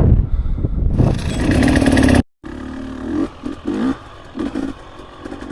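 Dirt bike engine running under load with heavy wind rush, then, after an abrupt cut a little over two seconds in, the engine turning over more quietly with several short revs.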